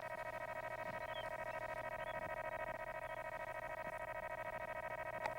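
Electronic audio-monitor tone, a steady buzzing beep with a fast flutter, held on continuously. It signals that ear-pinch pressure is being applied to the dog.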